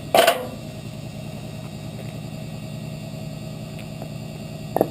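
Washing machine running with a steady motor hum while objects knock in the drum: one hard knock just after the start and a shorter one near the end.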